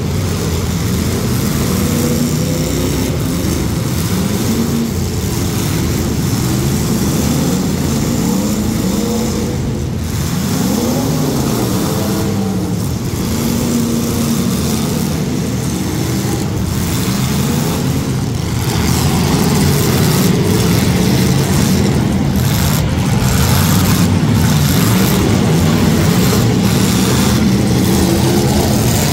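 Several demolition derby cars' engines running and revving in and out at once, their pitch rising and falling, a little louder from about two-thirds of the way through.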